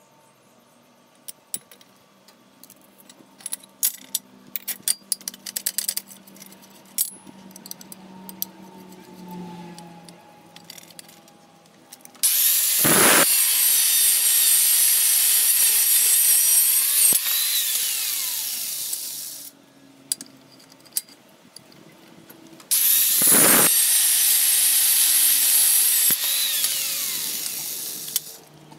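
A small power tool working on steel, run twice for about seven and then five seconds, each run starting suddenly and the first easing off before it stops. Before it, light clicks and taps of small metal parts being handled.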